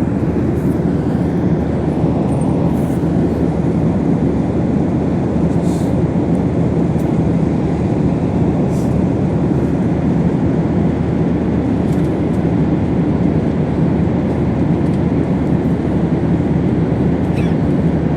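Steady low rumble of cabin noise inside a passenger aircraft, unbroken and even throughout, with a few faint ticks.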